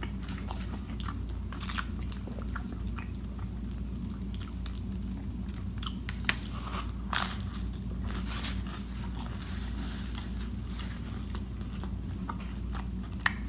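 Close-miked chewing of a pepperoni pizza edge piece: steady mouth sounds with scattered crunches of crust, and two sharper crunches about six and seven seconds in.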